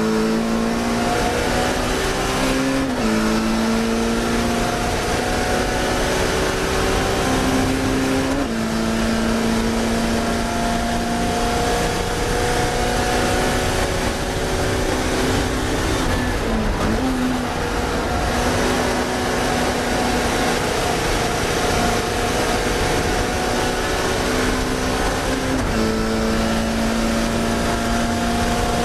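Classic Mini race car's four-cylinder BMC A-series engine running hard at racing revs, its pitch jumping sharply at gear changes four times.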